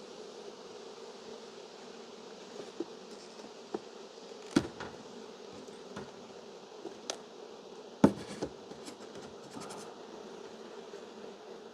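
A swarm of honey bees buzzing steadily around an open hive, with a few sharp knocks, the loudest about four and a half and eight seconds in.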